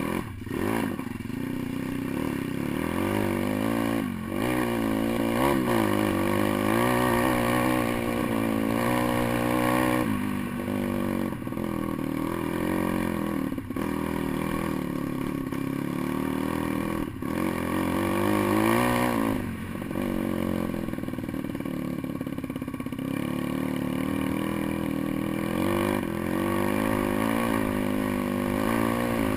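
Pit bike's small single-cylinder four-stroke engine under way, the revs rising and falling with the throttle. There are short drops every few seconds where the throttle is closed.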